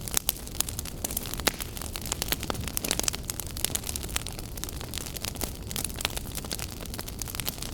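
Firewood burning: a steady low rumble of flames under frequent sharp, irregular crackles and pops.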